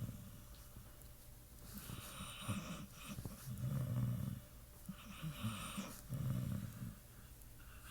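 Sleeping pit bull snoring: a slow series of low snores with a breathy hiss, about three or four breaths, the strongest about four and six seconds in.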